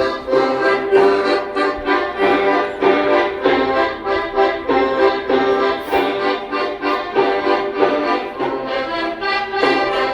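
Accordion playing a traditional folk tune, its notes changing several times a second.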